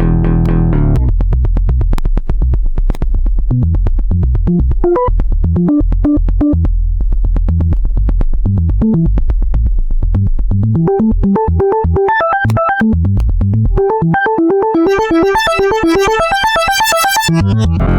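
Korg Volca FM synthesizer playing a sequenced pattern: fast repeated short notes over a steady bass, with a quick higher melodic line coming in about two-thirds of the way through and turning brighter near the end.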